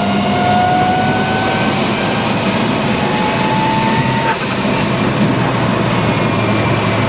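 Evo 7 turbocharged 4G63 engine in a Mitsubishi Evo 2, running under power on the move. A whine slowly rises in pitch, then breaks off with a brief dip about four seconds in before the engine carries on steadily.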